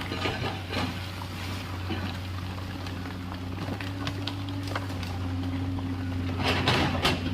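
Komatsu PC210LC excavator's diesel engine running steadily, with bursts of clatter and knocks near the start and a louder cluster near the end.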